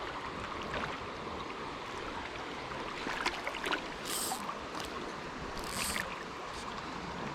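Shallow creek water running steadily over the riffles, with a few faint clicks and two brief high-pitched swishes about four and six seconds in.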